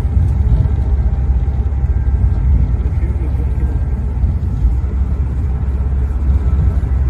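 Steady low rumble of a passenger train rolling at speed, heard from inside the car.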